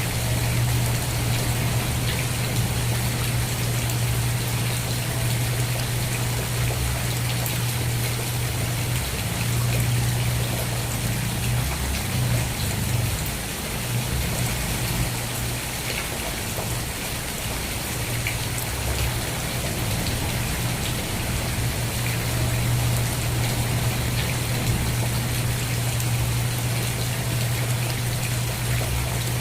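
Steady rain falling, an even hiss with scattered drop ticks, over a constant low hum.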